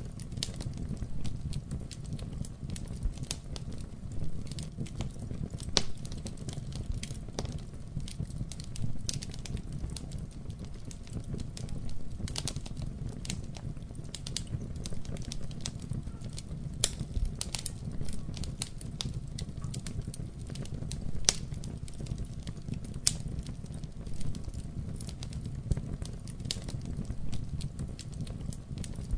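Wood fire burning in a fireplace: a steady low rumble of flames with irregular sharp crackles and pops from the burning logs, a few louder snaps now and then.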